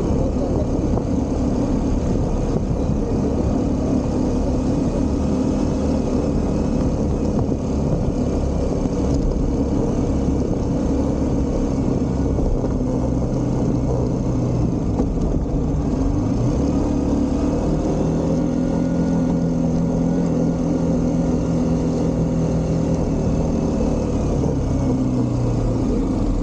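Motorcycle engine running at a steady cruise under heavy road and wind noise, its note rising a little about sixteen seconds in as the bike speeds up.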